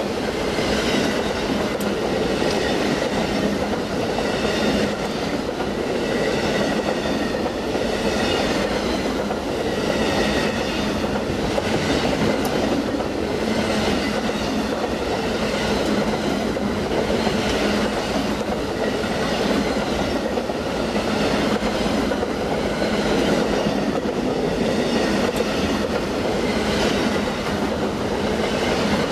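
Amtrak Auto Train autorack cars rolling past at close range: steel wheels on rail making a steady rumble and a regular clatter that swells about once a second as the trucks go by, with a faint high ringing from the wheels.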